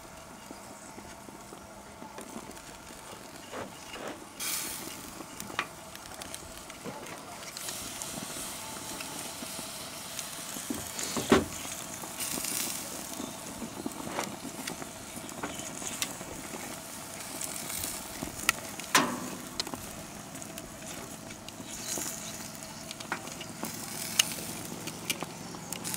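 Steaks and chicken kabobs sizzling on a propane barbecue grill, with a few sharp clicks and knocks scattered through, the loudest about eleven and nineteen seconds in.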